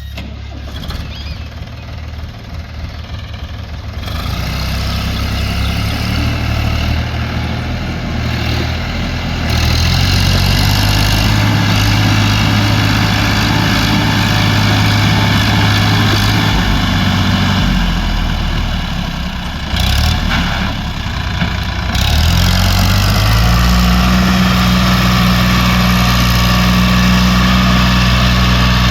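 JCB 3DX backhoe loader's diesel engine running, its revs stepping up several times: once about a third of the way in and again near the end, each time getting louder.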